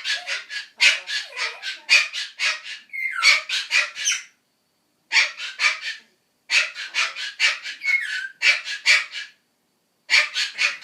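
Ducorps's cockatoo calling in rapid strings of short, repeated calls, about four or five a second, broken by three short pauses.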